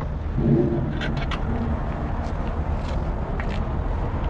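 Classic and muscle car engines running with a steady low rumble, with scattered sharp clicks.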